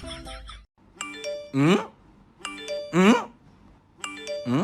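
Doorbell-style ding-dong chime sounding three times, about every second and a half, each followed by a short, loud rising call. Music cuts off just before the first chime.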